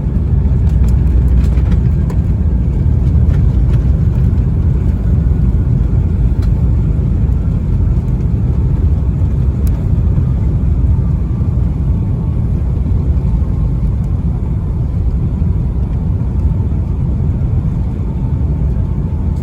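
Steady low rumble inside the cabin of a Boeing 757-200 on arrival, the engines and airframe running with a few faint clicks about a second in.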